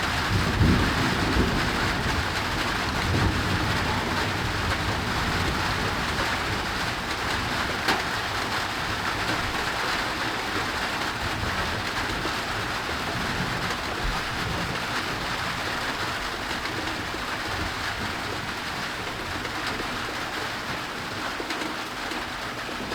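Steady rain falling, with low rumbles of thunder from a nearby thunderstorm in the first few seconds. The rain eases a little toward the end.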